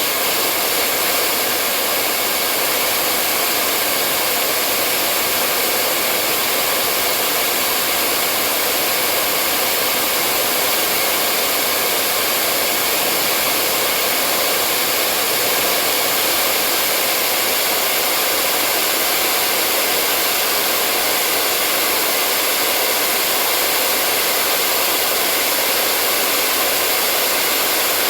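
Hair dryer running steadily: an even, unbroken blowing whoosh with a faint steady whine in it, used as white noise to lull a baby to sleep.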